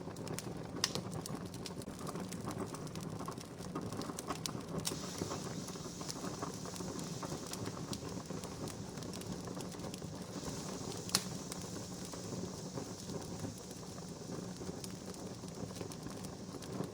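Wood fire crackling steadily with scattered small pops, two sharper pops about a second in and about eleven seconds in, and a soft hiss that rises through the middle.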